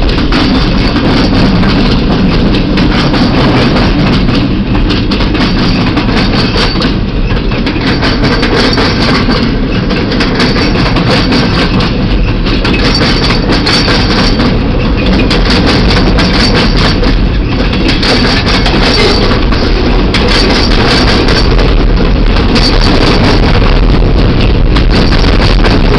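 A train with diesel locomotives rolling by: engines running under a steady, loud rumble of railcar wheels on the rails.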